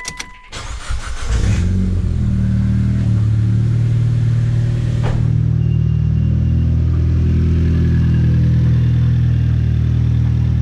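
Mitsubishi Lancer Evolution X's turbocharged 2.0-litre four-cylinder engine started: a short electronic beep, the starter cranking for about a second, then the engine catches and settles into a steady idle.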